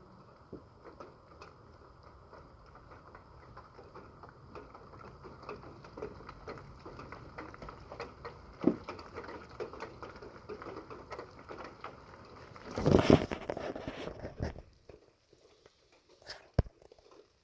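Rain pattering steadily, with many small drops and drips tapping. About 13 seconds in comes a sudden loud burst lasting about a second, and the sound cuts off abruptly a little later.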